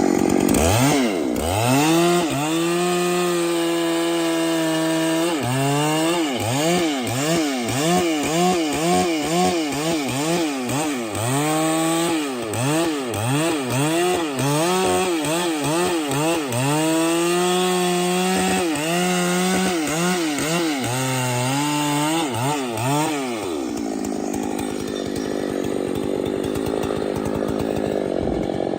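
Chainsaw cutting into tree wood, its engine pitch rising and falling over and over as the chain bites and frees. Near the end it runs at a steady high speed.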